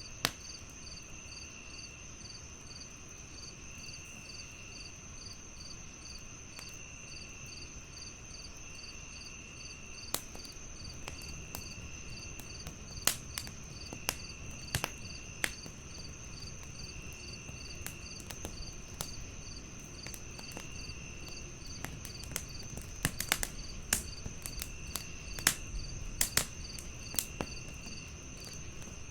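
Crickets chirping steadily, one in a fast, even pulse and another in short trills repeating every couple of seconds, over the irregular sharp crackles and pops of a burning wood fire, which come more often near the end.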